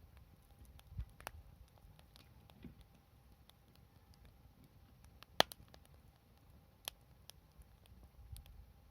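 Wood campfire burning quietly, with a few sparse crackles and one sharp pop about five and a half seconds in, the loudest.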